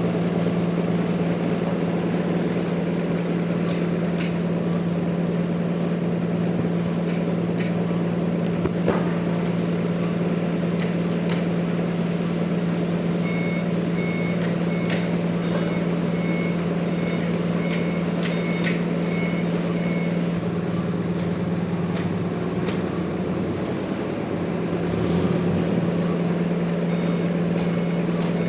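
Steady low drone of running machinery, with a reversing alarm giving a series of short high beeps through the middle and again near the end. A few sharp knocks are scattered through.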